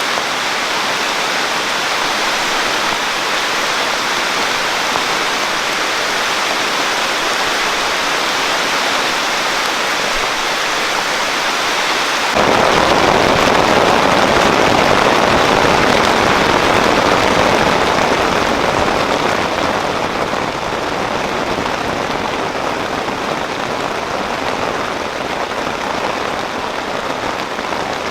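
Steady rain falling. About 12 seconds in the sound changes abruptly, becoming louder and deeper, then eases a little toward the end.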